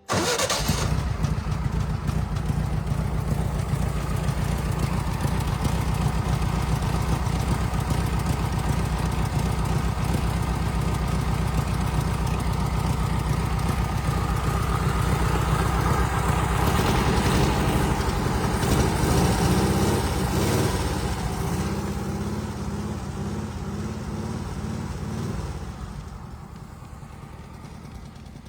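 Engine of a 1965 Zink Z5 Formula Vee race car, an air-cooled Volkswagen flat-four, running steadily. Its revs rise and fall about two-thirds of the way through, and the sound then fades toward the end.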